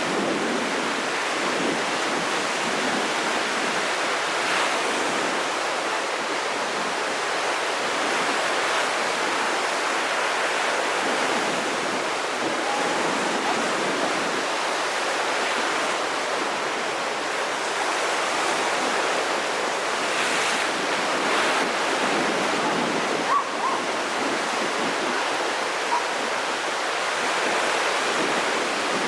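Rough sea surf stirred up ahead of a typhoon, a steady, unbroken rush of waves breaking and washing.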